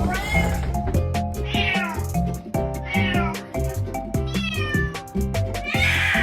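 Domestic cat meowing again and again, about five drawn-out meows spaced roughly a second and a half apart, over background music with a steady beat.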